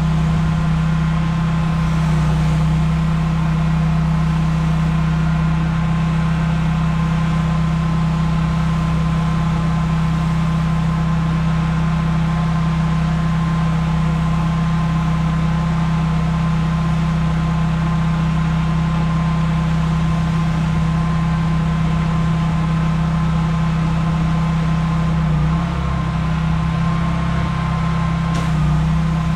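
Pressure washer's engine running steadily with a constant low drone, dipping briefly near the end.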